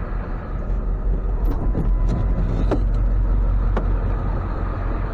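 Tow truck engine idling with a steady low rumble, with a few sharp metallic clicks and knocks over it from about a second and a half to nearly four seconds in.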